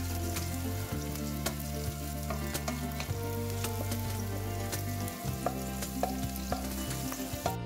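Oil sizzling as sliced shallots, chilies, garlic and dried anchovies are stir-fried in a wok, with a wooden spatula scraping and clicking against the pan. The aromatics are fried until cooked and fragrant. Soft background music plays underneath.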